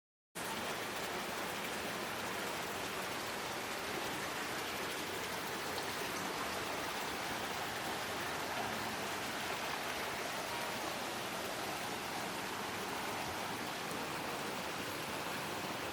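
Steady rushing of a mountain stream, an even wash of water noise that cuts in abruptly just after the start and holds constant.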